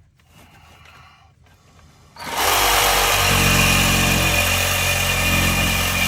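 A faint rustle, then a power tool starts abruptly about two seconds in and runs loud and steady with a motor hum.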